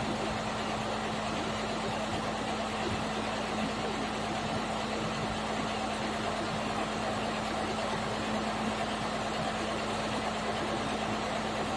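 An engine running steadily at a constant speed: an even hum that holds one pitch throughout, with no revving.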